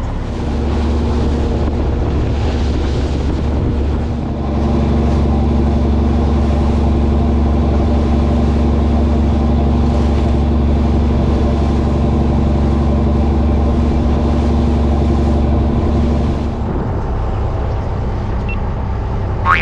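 Fishing boat's engine running steadily, throttle raised about half a second in and again about four and a half seconds in, then eased back near the end. A brief high chirp at the very end.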